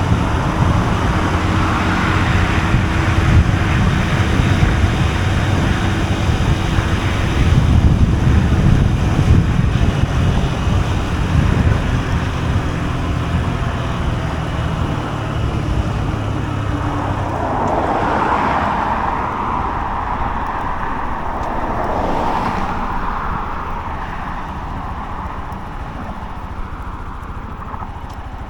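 Honda CB125F's small single-cylinder engine running on the road, with wind buffeting the microphone. A little past halfway a higher-pitched swell rises and fades, and the sound eases off toward the end.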